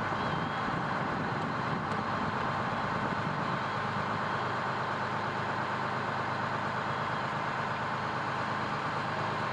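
Fire truck engine running steadily, heard as a continuous even drone from within the truck.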